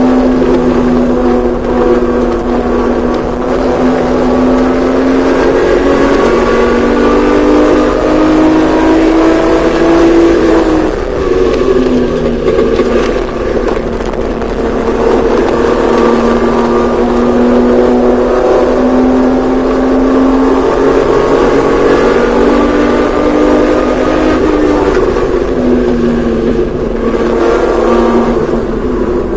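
Porsche 911SC's air-cooled flat-six working hard on a track lap. Its pitch climbs, drops sharply about ten seconds in, climbs again, and eases off once more near the end.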